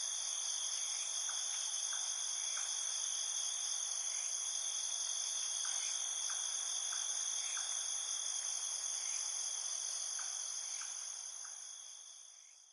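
Steady, high-pitched chorus of crickets or similar insects, several trilling layers at once, with faint short chirps scattered through it; it fades out near the end.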